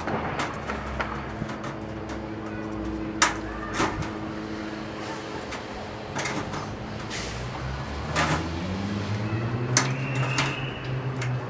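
Irregular sharp knocks and clanks, consistent with work on sheet-metal chimney cladding. A low hum rises in pitch from about eight seconds in.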